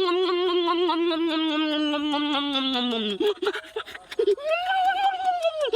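A voice holds a long, wavering note that slides down in pitch and stops about three seconds in. After a few short sounds comes a shorter, higher drawn-out call near the end.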